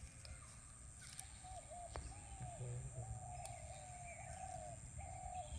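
A bird calling a long run of short, low hooting notes, about two a second, starting about a second and a half in.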